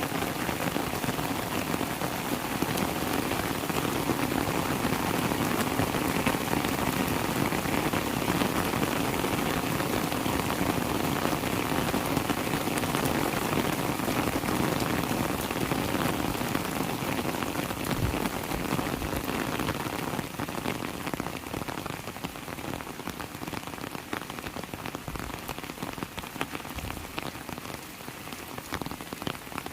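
Heavy rain falling steadily as a dense hiss of countless drops, easing slightly about twenty seconds in.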